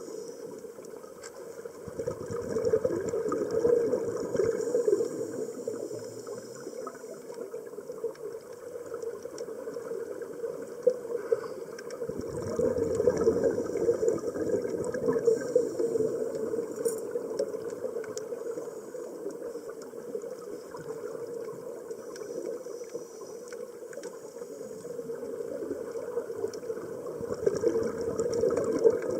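Scuba diving heard underwater: surges of air bubbles about every ten to fifteen seconds, with stretches of hissing air between them, from the diver's regulator breathing and the air going into and out of the drysuit.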